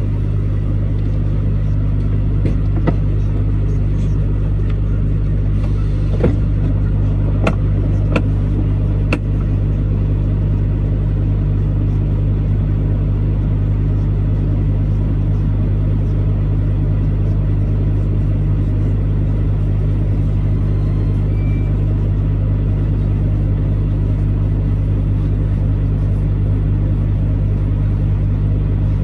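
Truck engine and road noise heard from inside the cab while driving: a steady low drone, with a few sharp clicks or knocks in the first ten seconds or so.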